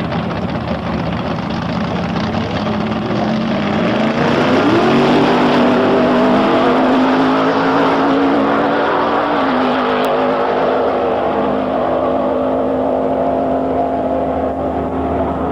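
Engine of a 1984 GMC S15 hot-rod truck revving up about four seconds in, then held at high revs.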